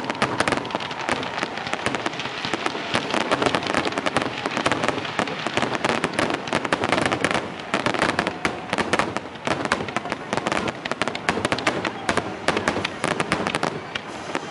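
Aerial fireworks display: many shells bursting in a dense, unbroken barrage of bangs, several a second.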